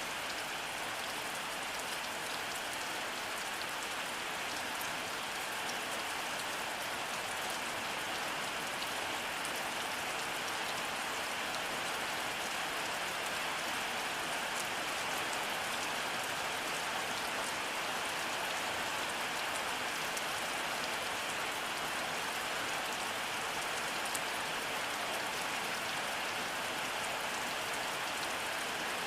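Steady rainfall, an even patter of drops with fine scattered higher ticks and no thunder.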